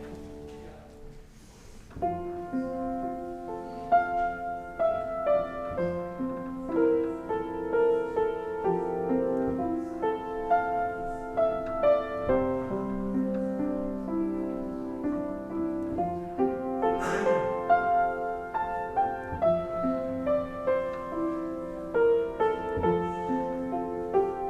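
Slow piano music: a held chord fades away, then the playing picks up again about two seconds in and continues as a gentle, flowing melody over chords.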